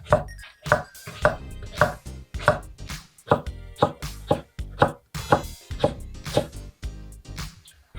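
Kitchen knife chopping food on a cutting board in a steady rhythm, about two strokes a second.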